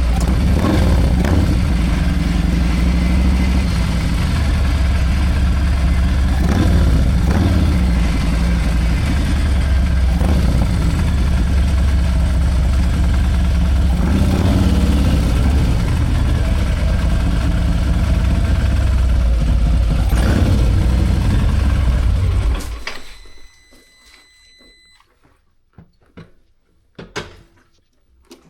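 Harley-Davidson Milwaukee-Eight 114 V-twin with a Screaming Eagle 447 torque cam, running loudly and rising in pitch a few times. It cuts off suddenly about 23 seconds in, leaving only faint clicks.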